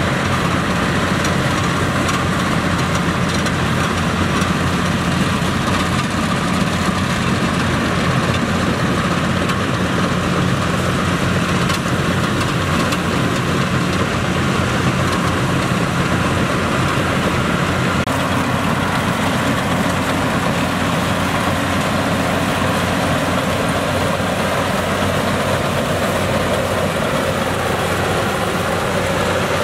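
Yanmar YH700 rice combine harvester's diesel engine running steadily, with the machine's mechanical noise over it; the tone shifts slightly about two-thirds of the way through.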